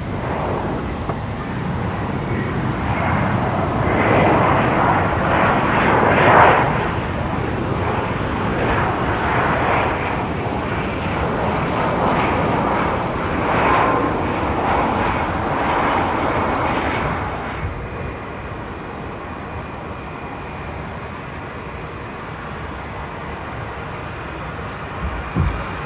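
Jet airliner's engines going past: a loud rushing noise that swells over the first few seconds, peaks about six seconds in, and dies down after about seventeen seconds. A brief thump near the end.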